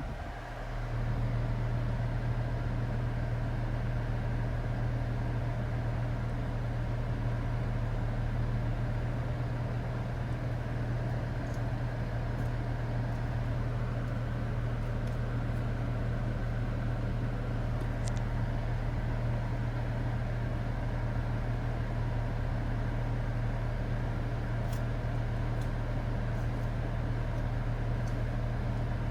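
A 2013 Dodge Challenger's air conditioning running with a steady low hum, which settles in about a second in after a brief dip.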